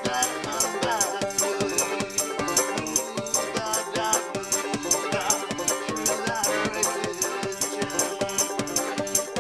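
Banjo-driven folk-punk song played live, with a shaker rattling steadily at about four strokes a second over the banjo.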